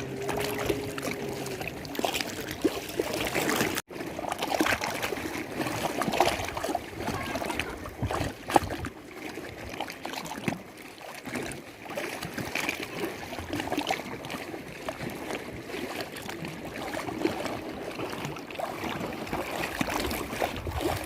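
Lake water lapping and sloshing in small, irregular splashes. A faint steady hum fades out in the first two seconds, and the sound cuts out for an instant about four seconds in.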